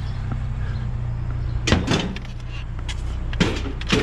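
Vehicle engine idling with a steady low hum, while scrap is thrown into the back: a loud clunk about two seconds in, a lighter knock, and another clunk near the end.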